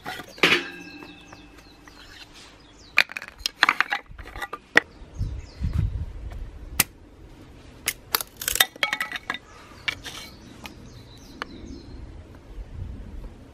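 Cookware and utensils clinking and knocking. A struck piece of metal rings briefly about half a second in, followed by scattered clinks and knocks, with flurries of them around three and eight seconds in.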